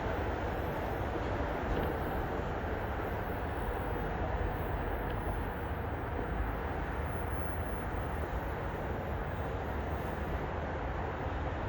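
Commuter train running on the track, a steady low rumble with an even rushing noise and no horn.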